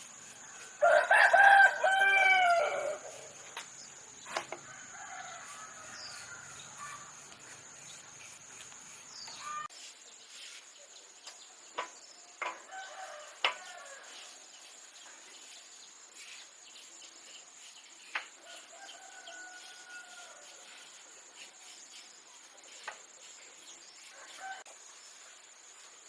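A rooster crowing loudly about a second in, with fainter crowing and clucking from poultry later on. A steady high insect drone and scattered light clicks run underneath.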